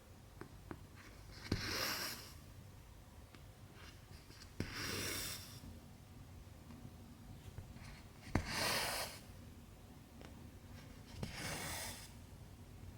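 Cotton thread pulled through cross-stitch fabric four times, about every three seconds. Each pull is a short swish, most beginning with a sharp tick as the needle pierces the fabric.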